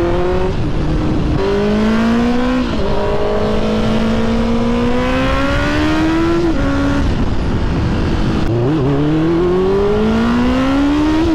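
Honda CB650R's inline-four engine through an aftermarket Black Widow exhaust, accelerating hard while riding. The engine pitch climbs and then drops sharply at each upshift, several times over.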